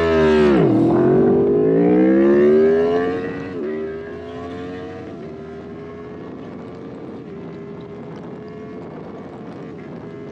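Sport-bike engines of an Aprilia Tuono V4 1100 Factory and a BMW S1000R accelerating hard in a drag race. The pitch drops and then climbs through the gears, with several quick upshifts. The sound grows fainter after about three seconds.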